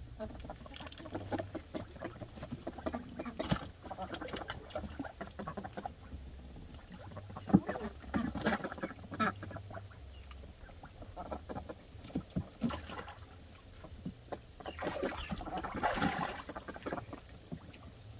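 Farm ducks splashing in fresh water, with irregular splashes and slaps throughout, a sharp one about seven seconds in and a longer burst of splashing near the end, mixed with duck quacks.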